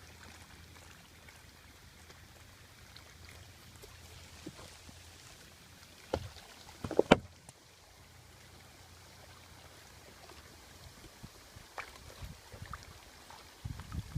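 Kayak paddling on calm water: faint water sounds from the paddle strokes, with two sharp knocks about six and seven seconds in, the second much the loudest. A low rumble comes in near the end.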